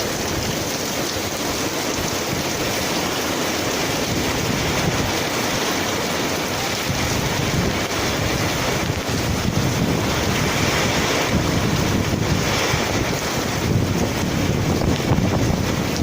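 Heavy rain in strong wind: a steady rush of rain with gusts buffeting the microphone in an uneven low rumble.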